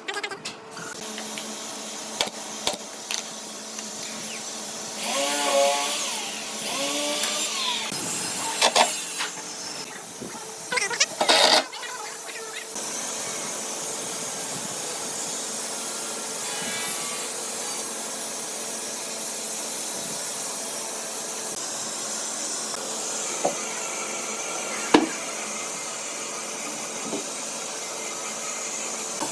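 Woodworking power tool running on wood, mostly as a steady high hiss, with a few louder, uneven bursts in the first half.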